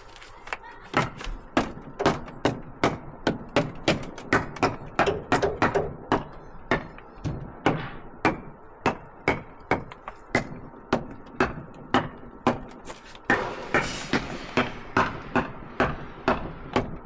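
Pieces of split firewood knocking against each other as they are stacked, a quick run of sharp knocks, about two or three a second.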